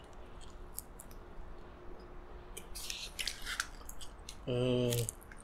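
Close-up biting and chewing of a double cheeseburger, with small wet clicks and crackles that are busiest about three seconds in. Near the end comes a short, steady hummed 'mm' through a full mouth.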